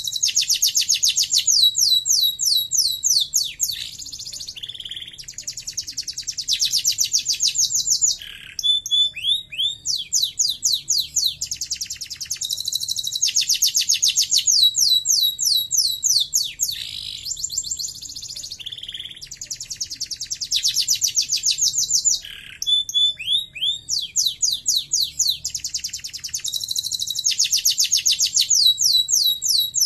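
Canary singing long, fast trills: rapid runs of repeated high notes in phrases of a few seconds, changing from one trill type to the next with brief breaks between phrases.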